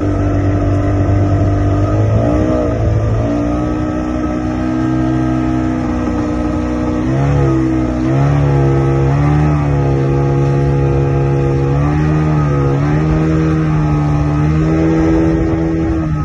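Boat engine running at speed, likely the boat towing the banana boat, its pitch rising and falling several times as the throttle changes.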